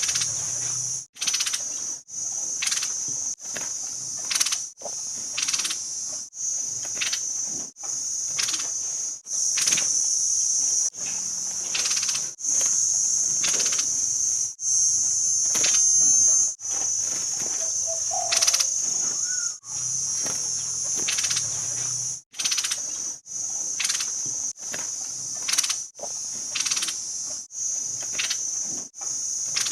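A steady high-pitched insect drone, with short sharp chirps repeated about once a second and brief gaps where the sound drops out.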